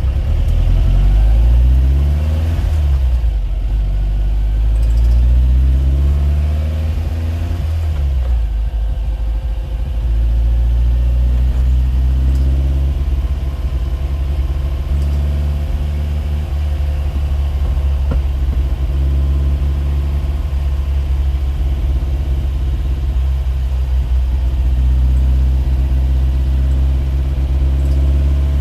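An engine running steadily, its pitch sweeping up and down a few times in the first seconds and again about eight seconds in.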